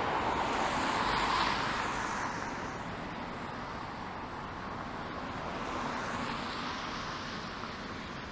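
City street traffic: cars passing with tyres hissing on rain-wet pavement, swelling about a second in and again near the end.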